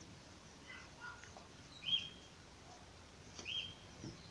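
A bird chirping faintly in the background, giving short single chirps about every second and a half.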